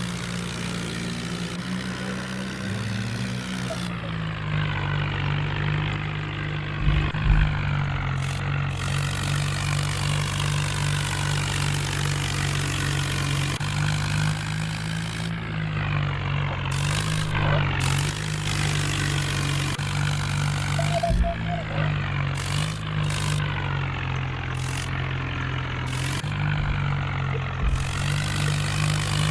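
Mahindra tractor's diesel engine running steadily. Its pitch drops about four seconds in and then holds, with a few short low thumps.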